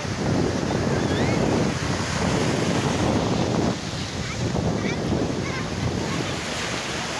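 Wind buffeting the microphone, a loud rough rush that surges and eases, with a few faint high chirps.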